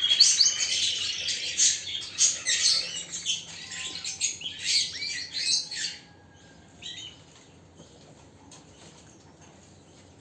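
Domestic canary singing in quick high chirps and rolled notes. The song stops about six seconds in.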